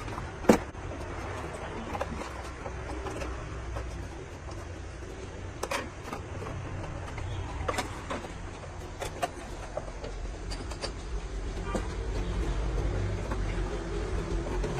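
Repair work on a truck: scattered sharp metal knocks and clicks over a steady low rumble, with one loud knock about half a second in.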